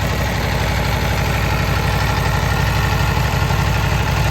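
Aprilia Tuono V4 Factory's 1077 cc V4 engine idling steadily.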